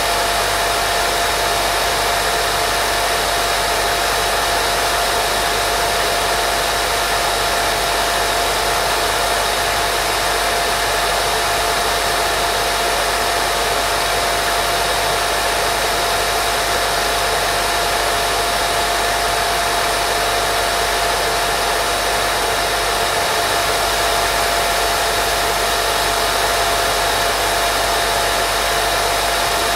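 Steady, unchanging white noise for baby sleep: an even hiss with a thin steady whine running through it.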